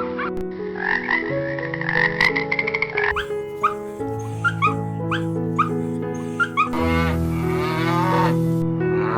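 Background music with a string of short animal calls over it: a rapid pulsing trill in the first few seconds, then short upward-sweeping calls repeated about once a second, and a run of quick calls near the end.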